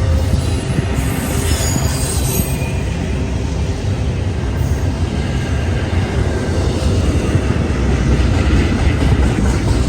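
Train rolling past close by: a steady heavy rumble of wheels on rail, with a brief high wheel squeal a second or two in.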